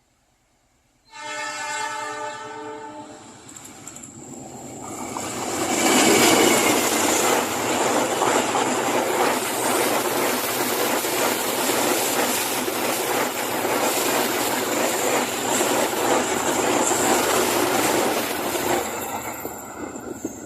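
KA Taksaka express train sounds its horn for about two seconds, then passes at speed, the noise of its wheels on the rails and the passing carriages steady and loud for some fifteen seconds before fading near the end.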